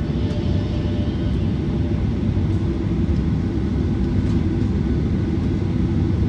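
Steady low rumble inside the cabin of a Boeing 737-900ER, with its CFM56-7B turbofan engines running at low power on the ground.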